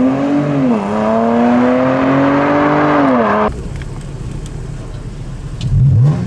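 Car engine revving, its pitch rising and falling slowly, then cutting off abruptly about three and a half seconds in to a lower rumble. A short rev rises sharply near the end.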